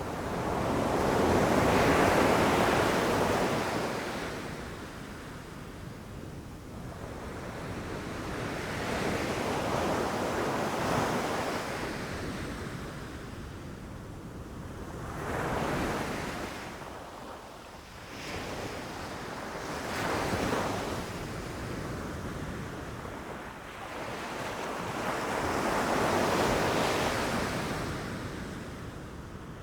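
Ocean waves breaking on a beach: a hissing wash of surf that swells and ebbs, with about five waves crashing, the loudest about two seconds in and another near the end. Some wind is mixed in.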